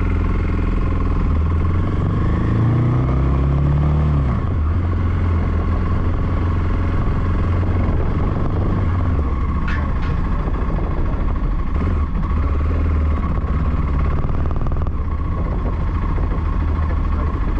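Voge 300 Rally's single-cylinder engine running under way, its pitch rising as it accelerates for a couple of seconds and dropping back about four seconds in, then a steady rumble. There is one brief click near the middle.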